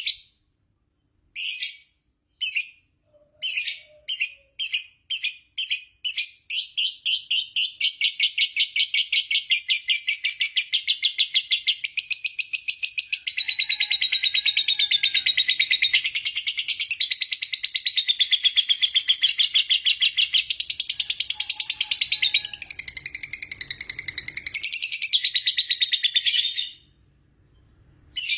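Lovebird ngekek: a few separate shrill calls that speed up into one long, unbroken rapid chatter lasting about twenty seconds, which cuts off abruptly near the end. This is the long ngekek ('ngekek panjang') that lovebird keepers prize.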